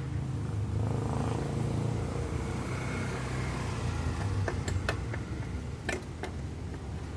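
Honda Vario 150 scooter's single-cylinder engine running steadily, swelling briefly about a second in, with a few sharp clicks in the second half.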